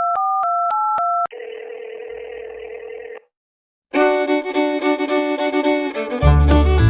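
Telephone keypad dialing tones: several quick two-note beeps, then a steady phone-line tone with hiss for about two seconds. After a brief silence, string music starts, and a bass beat comes in near the end.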